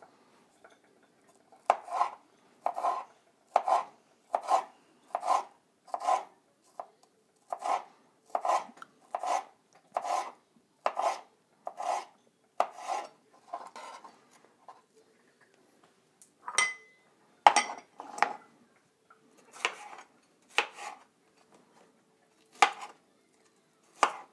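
A knife slicing a bell pepper into thin strips on a cutting board: a steady run of evenly paced cuts, a little more than one a second, then a pause and a few scattered cuts.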